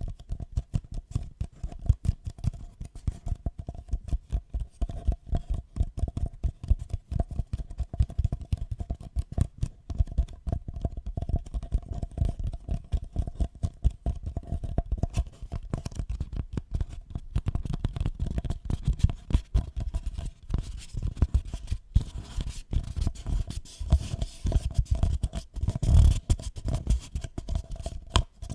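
Close-miked ASMR trigger sounds: rapid, continuous scratching and rubbing strokes, with a faint steady hum underneath.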